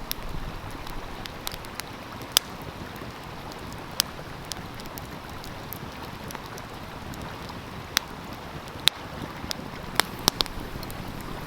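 Wood fire crackling, with sharp pops at irregular intervals over the steady rush of a flowing stream.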